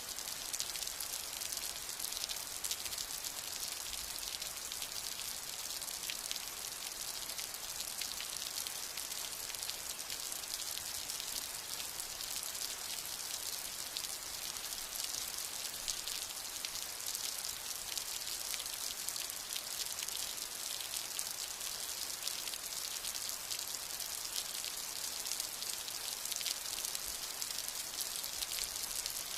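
Steady rain falling, an even hiss thick with the fine ticks of countless small drops, with no thunder.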